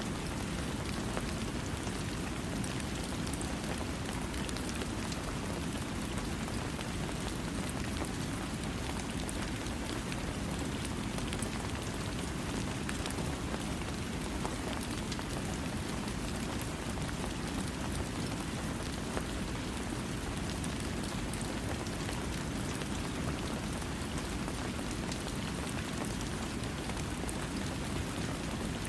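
Steady rain falling on a surface, a dense even hiss with heavier low rumble and scattered individual drop ticks, without thunder.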